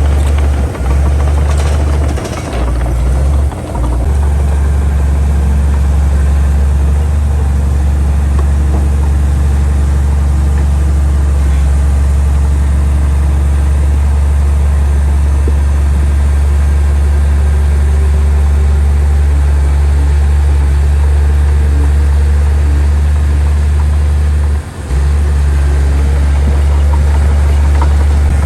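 Heavy diesel engine of earthmoving equipment running with a steady, loud low drone. The drone dips briefly a few times in the first four seconds and once near the end.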